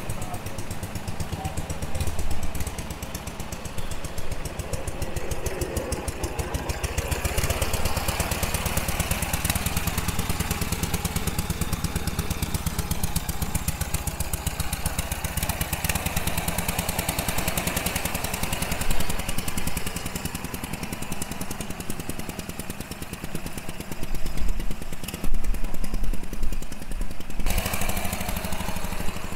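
Orient Buckboard's two-cylinder air-cooled V-twin engine running with a rapid, even patter of firing strokes. It grows louder and gustier near the end.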